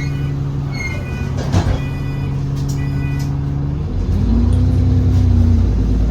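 Alexander Dennis Enviro400 double-decker bus engine running steadily, with short high-pitched beeps about once a second and a brief hiss about a second and a half in. About four seconds in, the engine note rises and grows louder as the bus pulls away.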